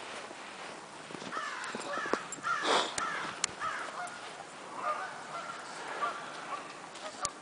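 A flock of geese honking, many short overlapping calls, likely snow geese. A louder rustling noise comes about two and a half seconds in, with a few sharp clicks.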